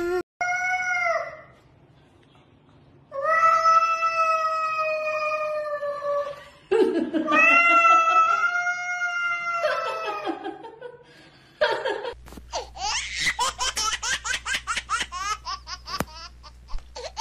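A cat yowling in long, drawn-out calls, the warning cry of a cat squaring off against another. Near the end a person laughs.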